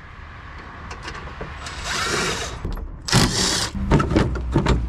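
Power drill run in two short bursts, the second louder, followed by several sharp knocks, as the homemade exhaust is being taken off a three-wheeler.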